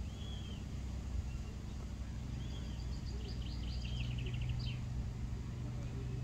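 Small birds chirping: a few short arching calls and a quick run of notes about halfway through, over a steady low hum.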